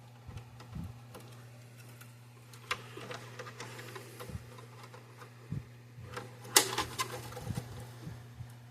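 Scattered small clicks and knocks of parts and hardware being handled and fitted by hand, with one sharp click about six and a half seconds in, over a steady low hum.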